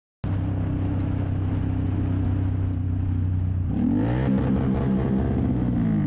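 Motorcycle engine running steadily, then revving up in pitch about four seconds in, holding, and easing back down near the end.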